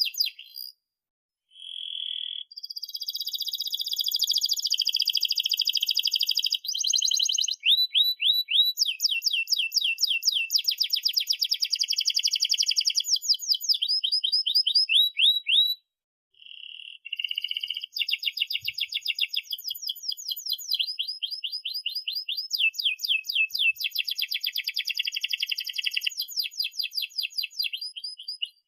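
Domestic canary singing a long song of rapid trills: fast runs of repeated high notes whose type changes every few seconds. The song breaks off briefly about a second in and again around the middle.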